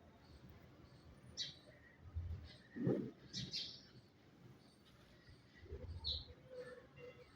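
Birds chirping in short, separate high calls a second or two apart, with a few low thuds among them.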